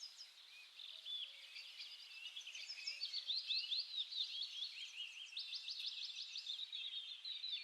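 Many small birds chirping and twittering together, their short calls overlapping in a continuous chatter.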